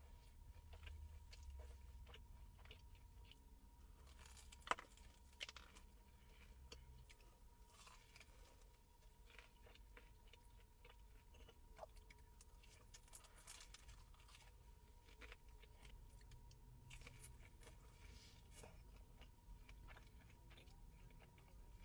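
Faint eating sounds: a person chewing and crunching food, with scattered small clicks and a sharp click about five seconds in.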